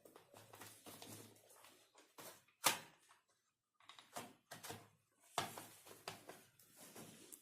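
Irregular plastic clicks, knocks and rustling from a laptop's parts being handled and fitted back together during reassembly, with one sharp snap about two and a half seconds in.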